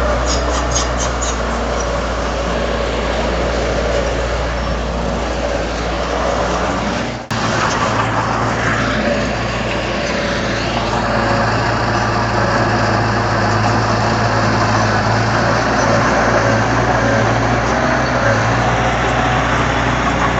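Heavy diesel earthmoving machinery running steadily under load. About seven seconds in the sound breaks off for an instant and resumes with a different low engine note.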